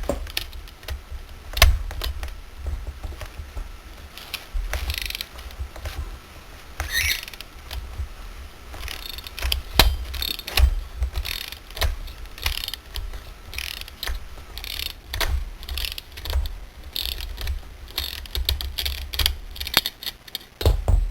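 Socket ratchet wrench clicking in irregular strokes as it works on a chainsaw's reverse-threaded 19 mm centrifugal-clutch nut, with knocks of metal on metal.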